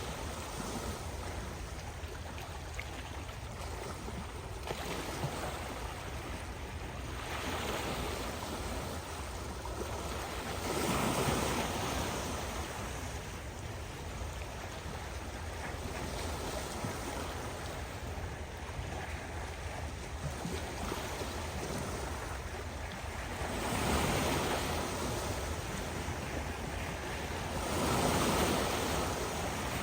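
Ocean waves breaking on the shore, swelling in several surges a few seconds apart over a steady wash. The loudest surges come about a third of the way in and near the end, over a constant low rumble.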